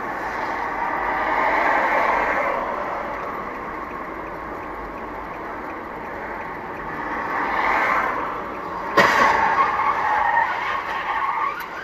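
Road and tyre noise of a car driving, picked up by a dashcam, swelling twice, with a sudden sharp knock about nine seconds in followed by a louder, rougher stretch.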